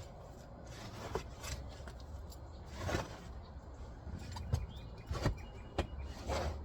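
Scattered light knocks and scrapes of gear being handled in a pickup truck bed, about seven of them at uneven intervals.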